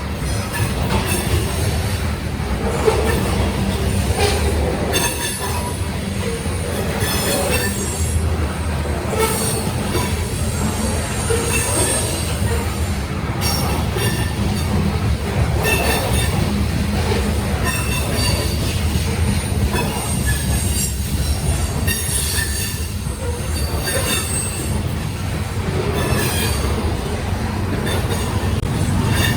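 Union Pacific grain train's freight cars rolling past, wheels squealing on and off in thin high tones over a steady low rumble.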